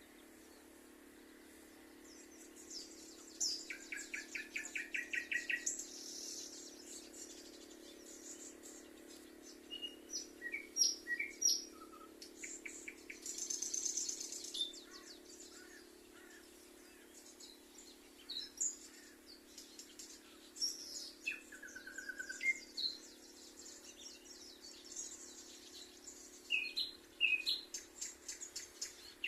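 Several songbirds singing and chirping, with short calls, rapid trills and a fast run of repeated notes, over a steady low background noise.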